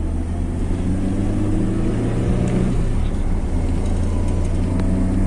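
Strong wind buffeting the microphone: a loud, steady low rumble, with a faint low hum that drifts slightly in pitch.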